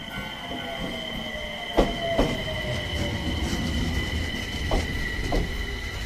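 Enshu Railway electric train slowing into the station. Its wheels give a steady high squeal, the motor whine falls in pitch over the first few seconds, and the wheels knock over rail joints several times.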